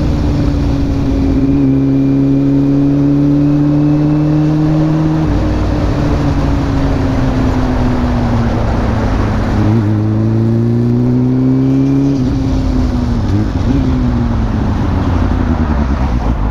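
Exhaust of a Honda CB400SF's inline-four engine through a WR'S slip-on muffler, heard while riding at expressway speed. The engine's pitch drifts slowly with the throttle, then drops and climbs sharply twice, with rushing wind beneath it.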